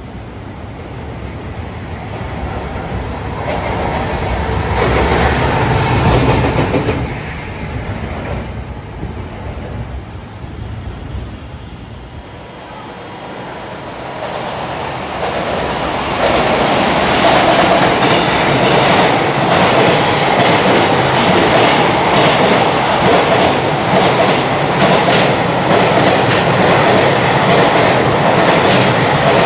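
Freight trains passing through a station. The first draws near and grows louder over the first several seconds. From about sixteen seconds in, a container train's wagons run close by with a steady, rapid clatter of wheels over rail joints.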